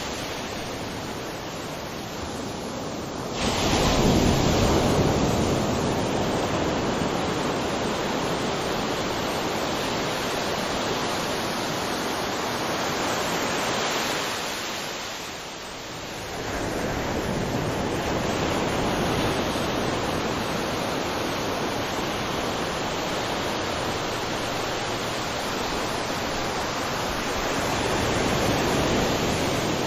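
Ocean surf on a beach: a steady wash of waves, with a wave breaking sharply about three seconds in, a brief lull around halfway, and another swell near the end.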